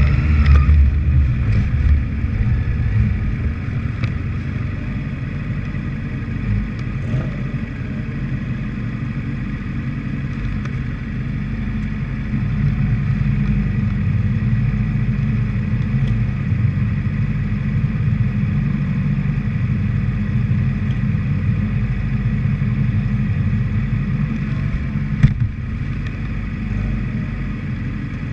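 Honda CBR600RR's inline-four engine idling steadily, heard through the bike's own mounted camera, with one sharp click near the end.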